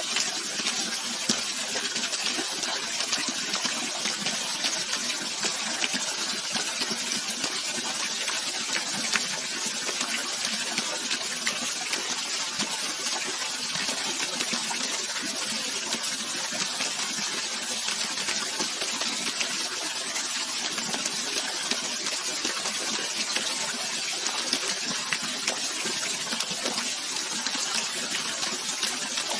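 Running water rushing steadily, an even hiss with small splashes and drips scattered through it.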